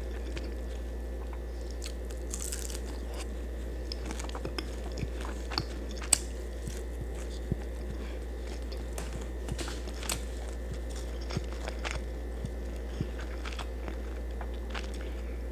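Close-up eating sounds: chewing and crunching food, with scattered short sharp clicks, over a steady low hum.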